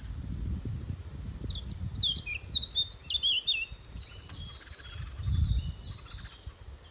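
A small songbird singing one quick phrase of rapid, twittering notes, starting about a second and a half in and lasting about two seconds, with a few faint notes after it. Underneath is a low rumble of outdoor noise that swells again near the end.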